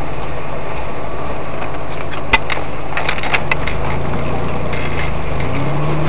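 Car engine and road noise heard inside the cabin by a dashcam, running steadily as the car drives at low speed, with a few sharp clicks between about two and three and a half seconds in. The engine note steps up slightly around four seconds in and again near the end.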